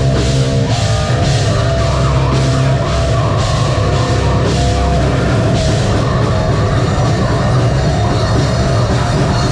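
A metal band playing live: distorted electric guitars and bass over a drum kit, with cymbals struck about twice a second for the first six seconds.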